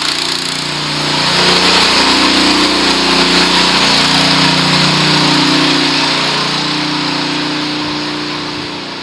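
Honda WB20XT semi-trash pump's small four-stroke engine running steadily under load, the pump having just caught its prime and begun pumping water. It grows louder about a second in and eases off slightly toward the end.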